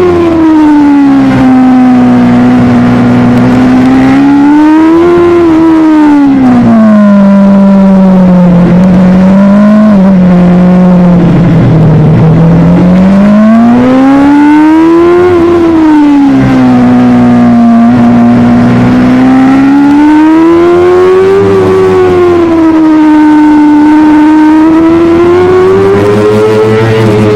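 Superbike engine at high revs, its pitch rising and falling smoothly over several seconds at a time as the rider opens and rolls off the throttle, with no gear-change steps. Loud and continuous, as heard from on the bike.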